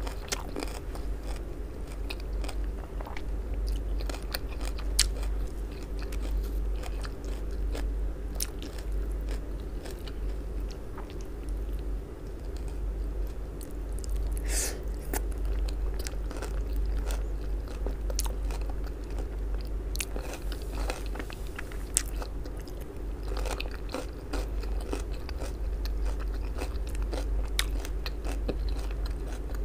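Close-miked chewing and biting of a meal of raw cabbage salad and baked eggplant-pizza slices: irregular crunches, crackles and wet mouth clicks, with a louder crunchy bite about halfway through. A steady low hum runs underneath.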